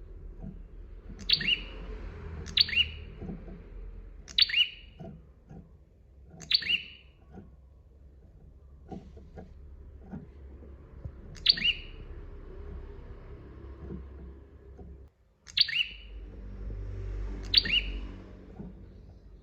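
A prinia (prenjak) calling, with seven loud, sharp, quick calls, each dropping in pitch, at uneven intervals, over a low steady background hum.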